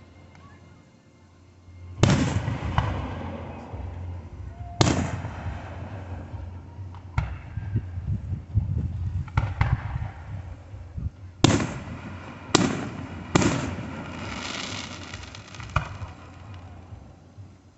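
Fireworks going off: about eight sharp bangs at irregular intervals, starting about two seconds in, several of them followed by a spreading crackle.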